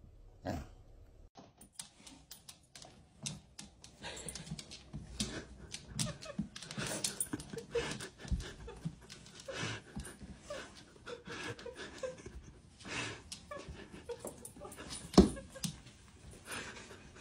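A dog panting, with scattered soft clicks and a sharp knock about fifteen seconds in.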